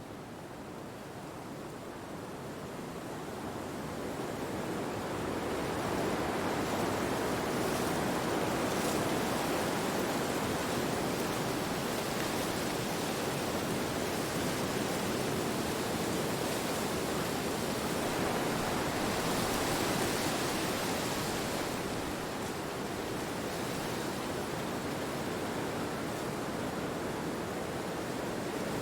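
Wind rushing through forest trees, a steady noise with no birdsong. It fades up over the first several seconds and swells in a stronger gust about two-thirds of the way through.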